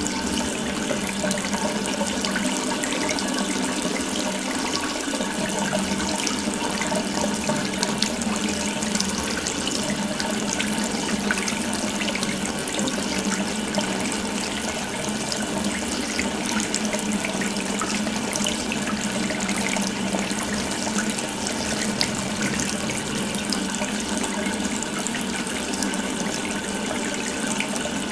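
Water running steadily from an open tap, a continuous even splashing stream.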